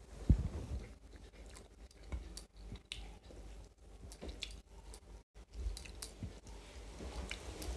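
People chewing mouthfuls of rice and fish curry, with soft squishes of rice being mixed by hand on the plates and scattered small clicks. A louder knock comes about a third of a second in.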